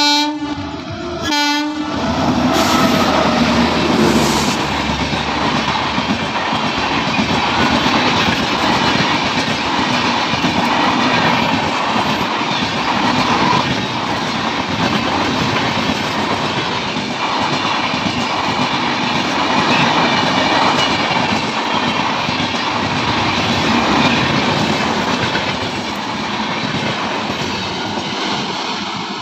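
Puri–Kamakhya Express horn sounding in two short blasts at the start, then the train passing close by, with loud steady rumble and the clickety-clack of its wheels over the rail joints.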